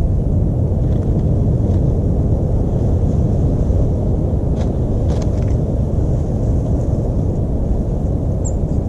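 A steady low rumble of outdoor background noise, with a few faint taps and one short high bird chirp near the end.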